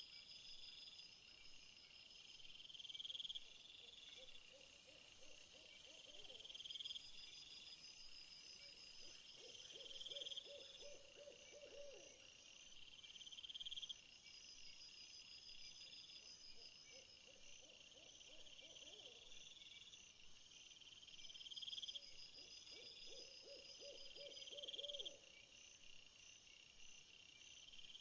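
Faint outdoor animal chorus. High chirps repeat every two to three seconds over a thin high buzz, and a low pulsed call comes four times, each lasting about two seconds.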